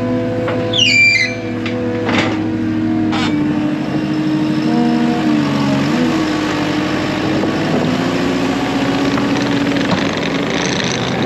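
Telehandler engine running steadily, its pitch dipping and then rising around the middle as it works. A short, high falling squeal comes about a second in, and two sharp knocks follow about a second apart.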